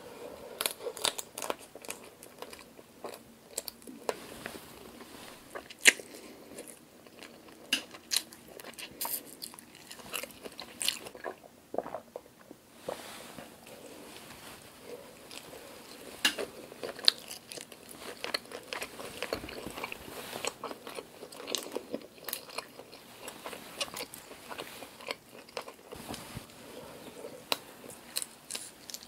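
Close-up mouth sounds of eating grilled black tiger shrimp: biting and chewing, with many sharp, irregular crunchy clicks.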